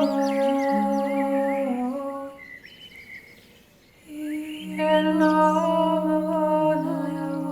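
Wordless humming in long held notes that step between a few pitches, with birds chirping high above it. The voice stops for about two seconds in the middle, leaving only the birds, then comes back.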